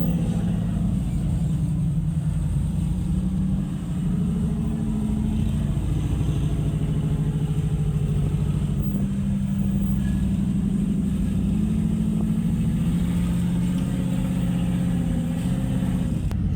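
Off-road buggy engine running steadily at low revs, its pitch rising and falling slightly, with a brief easing off about four seconds in.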